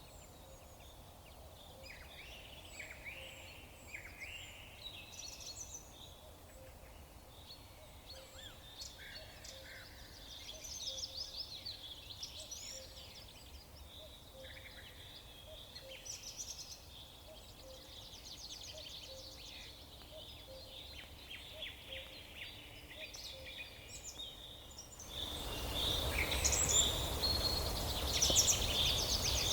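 Several songbirds chirping, trilling and whistling in overlapping short calls over a faint background hiss. About 25 seconds in, a louder, rushing background noise comes in suddenly, and the bird calls carry on over it.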